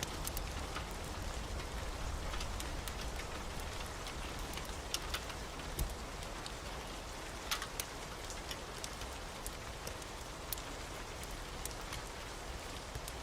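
Steady heavy rain, with a low rumble underneath and scattered sharp ticks throughout.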